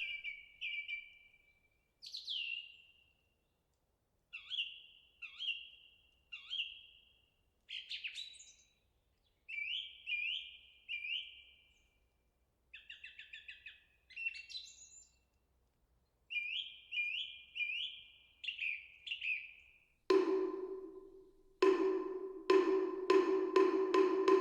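A songbird calls in short, clear chirps, often in runs of two to four, with one quick trill near the middle. About twenty seconds in, a moktak (Buddhist wooden fish) is struck loudly: three spaced knocks, then a fast even roll of about four strokes a second.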